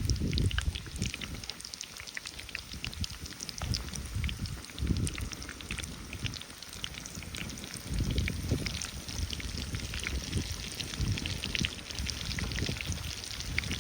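Irregular small crackles and ticks, like spattering or pattering, with uneven low rumbles underneath.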